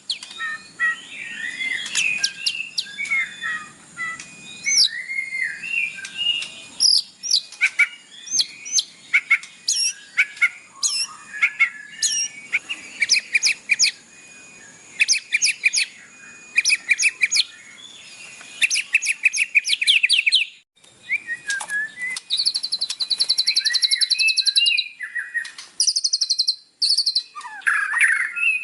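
White-rumped shama singing a loud, varied song of clear whistles mixed with fast rattling trills of rapidly repeated notes.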